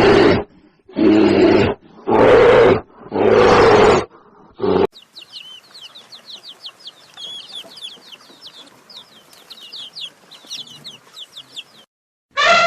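Five loud, rough animal calls about a second apart, then many rapid high-pitched bird chirps.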